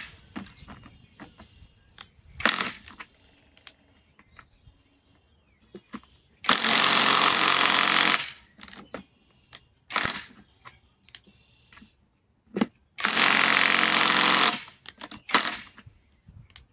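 Bauer 20V cordless compact impact wrench run in bursts: two long runs of about one and a half to two seconds, about six and a half and thirteen seconds in, with several short blips in between. Light clatter of handling fills the gaps.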